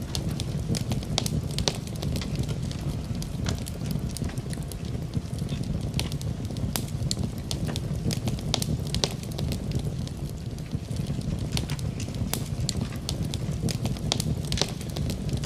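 Wood fire in a fireplace crackling, with frequent irregular sharp pops over a steady low rumble. Steady rain is mixed in underneath.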